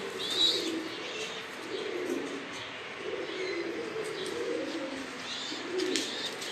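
Domestic pigeons cooing in low, wavering, repeated calls, with a few short high chirps from smaller birds over them.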